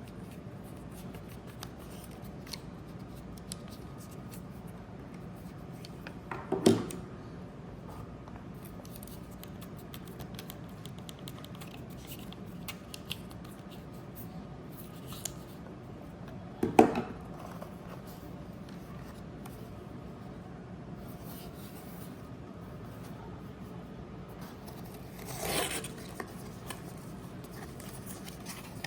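Packaging of a Meta Quest 3 being handled during unboxing: scattered small clicks, scrapes and rubbing, with two sharp knocks about seven and seventeen seconds in and a longer rustle near the end.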